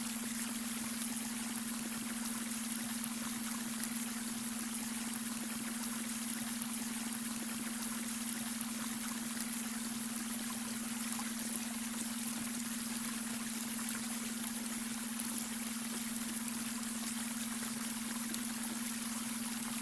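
Babbling brook: steady running, trickling water, with a steady low tone underneath from the added beta-wave brainwave track.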